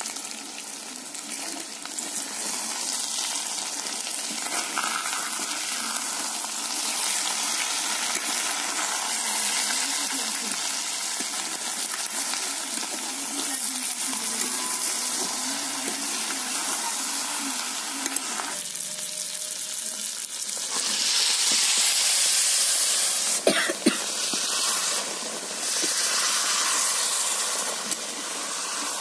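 Small fish, tomatoes and spices sizzling as they fry in an iron kadai while a metal spatula stirs them, with a few sharp scrapes and knocks of the spatula against the pan. The sizzle grows louder about three-quarters of the way through.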